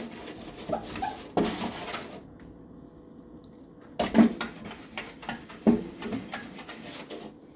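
Stiff brush scrubbing the inside of a microwave with a cleanser solution: a run of scratchy strokes, a pause of about two seconds, then another run of sharper strokes.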